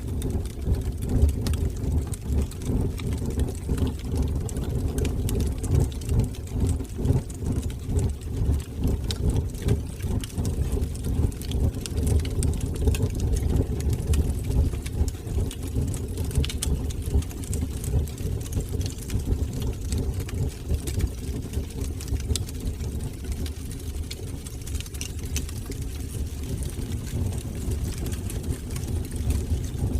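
Wood fire burning in a fireplace: a steady, fluttering low rumble of flames with scattered faint crackles and pops.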